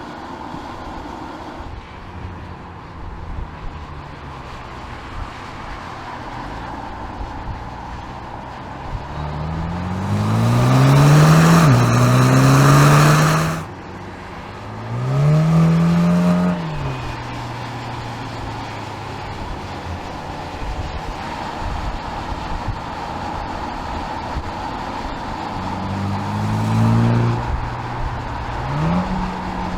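2020 MINI John Cooper Works Clubman's turbocharged four-cylinder engine and exhaust idling and being revved. About a third of the way in, one long rev climbs and is held loud for a few seconds before dropping suddenly back to idle; a short blip follows, and two more short revs come near the end.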